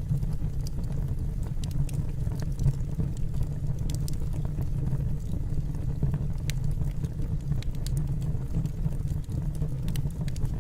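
Wood fire burning in a fireplace: a steady low rumble from the flames with scattered sharp crackles and pops of the burning logs.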